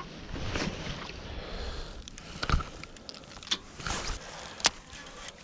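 Water splashing and sloshing in a shallow river, with a few sharp knocks about halfway through and near the end.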